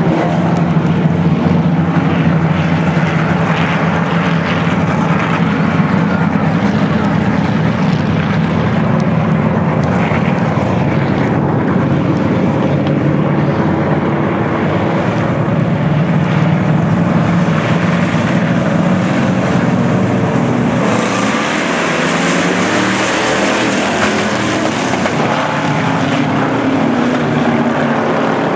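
A field of pure stock race cars racing, their engines making a loud, dense, steady drone. About twenty seconds in, the sound turns brighter and noisier for several seconds.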